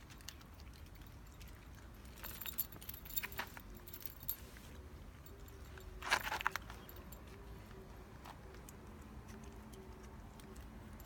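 Small metal pieces jingling and clinking in short scattered bursts, the loudest about six seconds in.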